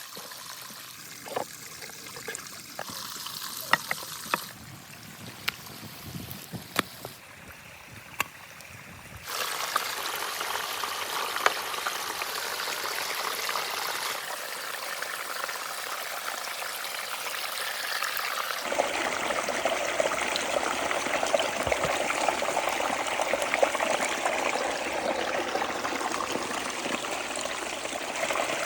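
Running water, a steady rush like a stream, with sharp clicks and knocks over the first few seconds. The water sound jumps louder about a third of the way in and changes again about two-thirds in, as shots change.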